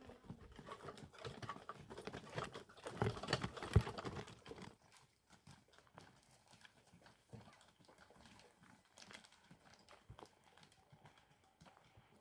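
Irregular knocking and clatter, a busy run of knocks for the first four or five seconds, loudest just before the fourth second, then only scattered faint taps.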